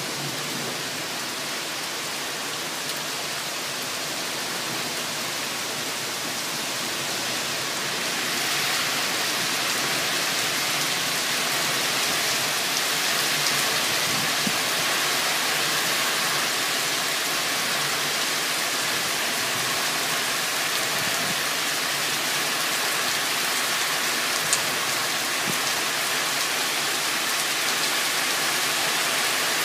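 Thunderstorm rain pouring steadily, growing louder about eight seconds in.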